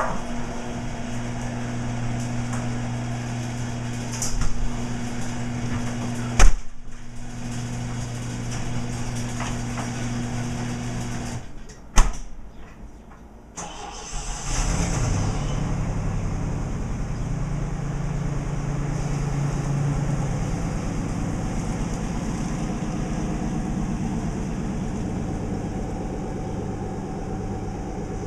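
A car engine starts about fourteen seconds in and then idles with a steady, pulsing rumble. Before that, a steady low hum runs and stops after about eleven seconds. Sharp knocks come at about six and a half and twelve seconds.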